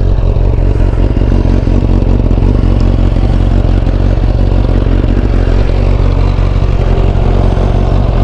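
Suzuki GSX600F's inline-four engine idling steadily through a Delkevic carbon exhaust.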